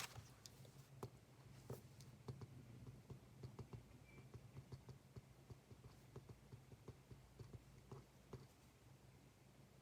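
Faint, irregular small clicks and taps of desk work, a few a second, over a steady low hum. The clicks thin out in the last second or so.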